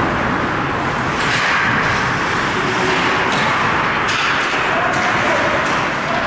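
Ice hockey rink game sound: steady arena noise with a few short, sharp sounds about one, three and four seconds in.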